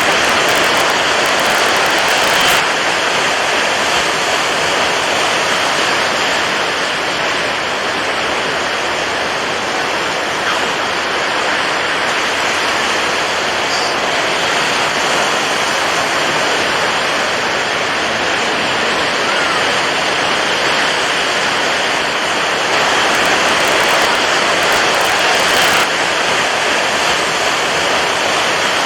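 Steady rushing water as a continuous even wash, slightly louder in the first couple of seconds and again for a few seconds from about 23 seconds in.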